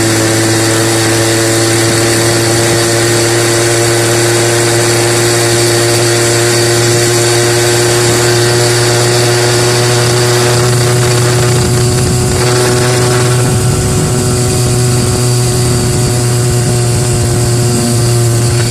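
A 66cc two-stroke bicycle kit engine running at steady high revs under way, its pitch held nearly constant with a slight rise. The engine is running rich.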